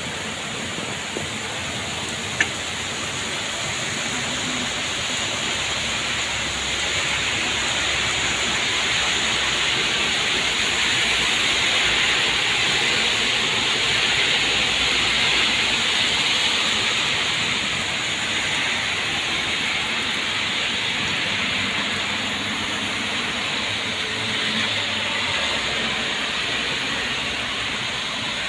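Steady rain, an even hiss that swells a little in the middle, with a single sharp click about two seconds in.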